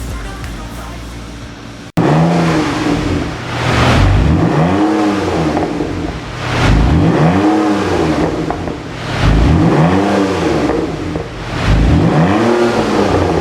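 Music for about the first two seconds, then a BMW E39 520i's straight-six engine revved repeatedly through an aftermarket single variable-valve exhaust, the revs rising and falling about five times.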